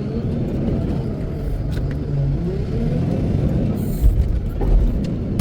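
Wheel loader's diesel engine running under load, its pitch rising and falling as it revs up and down, with a couple of heavy low thumps about four seconds in.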